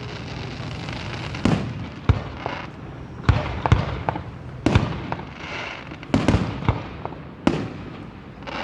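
Aerial firework shells bursting overhead: a string of about nine sharp bangs at irregular intervals, some in quick pairs, over a steady rumble.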